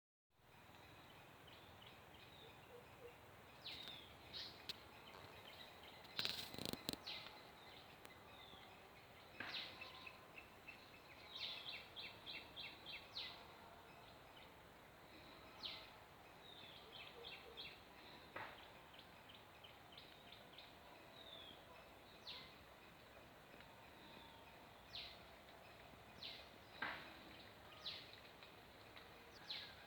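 Faint outdoor ambience of wild birds calling: scattered short chirps and a few quick repeated trills over a steady hiss, with two sharp clicks about six to seven seconds in.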